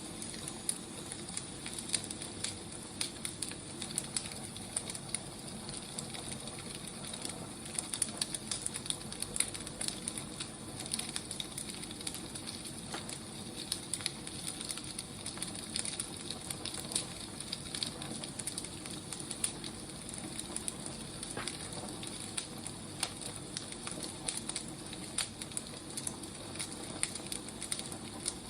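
Wood fire burning, a steady hiss with frequent irregular crackles and pops of burning firewood.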